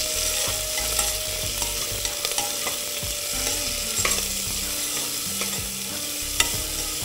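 Sliced onions, green chillies and curry leaves sizzling in hot ghee as a spatula stirs them in the pot, with a few sharp clicks of the spatula against the pot.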